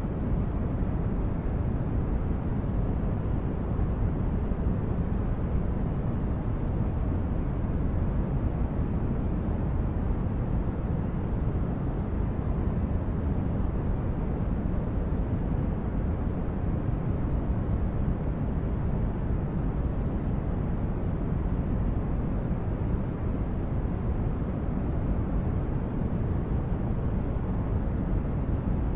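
Steady, deep rumbling noise of a sci-fi spaceship ambience, like a starship's engines humming through a corridor, unchanging throughout and weighted toward the low end, in the manner of brown noise.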